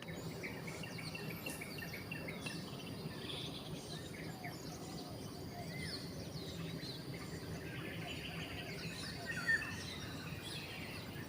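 Several small birds chirping and calling over a steady low background hum, with short rising and falling notes scattered all through and one brief louder sound about nine and a half seconds in.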